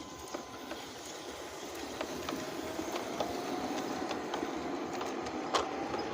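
Model train running along the track and getting closer, its small electric motor giving a faint whine that rises slightly in pitch, with irregular clicks from the wheels over the rail joints.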